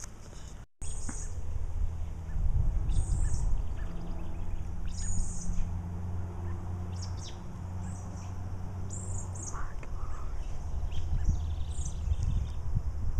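Wild birds chirping outdoors: short high calls repeating every second or so, over a steady low rumble.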